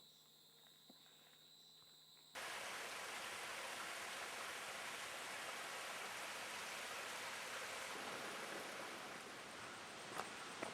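Steady rushing water noise that cuts in abruptly about two seconds in, after a stretch of faint hum.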